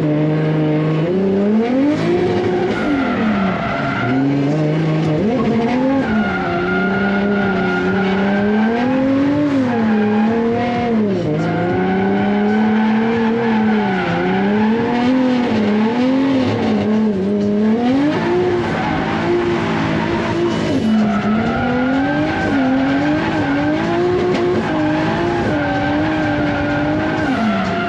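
Drift car's engine revving up and down over and over as it is driven hard around the course, with tyres squealing through the slides.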